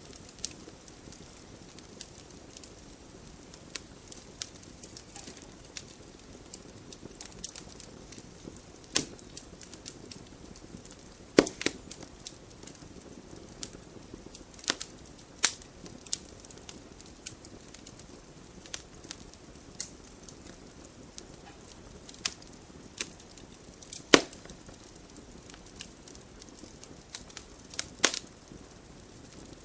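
Wood fire burning in a fireplace: a steady low hiss of flames with irregular sharp crackles and pops, a few of them louder snaps.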